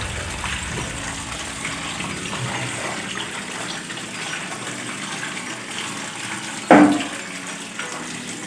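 Water gushing steadily out of a Haier washing machine's drain as the standing water left by a clog runs out, now that the blockage is cleared. A single sharp knock sounds about two-thirds of the way through.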